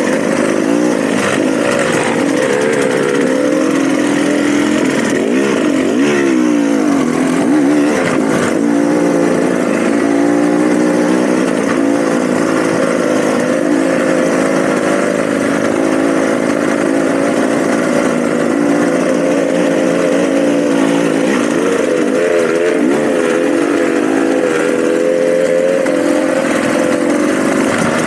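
Dirt bike engine running as it is ridden on a trail, the revs rising and falling continually, with a few sharper rev swings early on.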